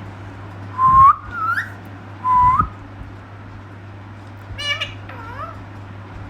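Pet parrot whistling: three short whistles that hook upward at the end within the first few seconds, then a couple of buzzier, raspier calls about four and a half seconds in.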